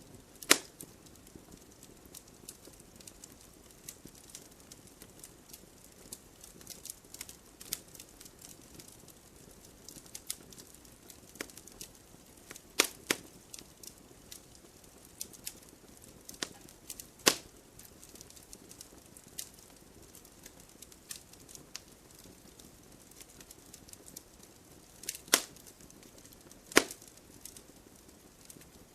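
Logs burning in a fireplace, crackling steadily with scattered small ticks. Several sharp pops stand out: one just after the start, two close together about 13 seconds in, one about 17 seconds in, and two near the end.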